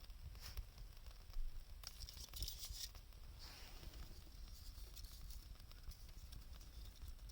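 Wood fire crackling with scattered small pops, and a brief burst of denser hissing crackle about two seconds in.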